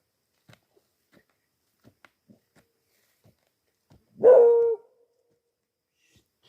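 A dog barks once, a single pitched bark of about half a second, a little past the middle, over faint scattered clicks and scrapes.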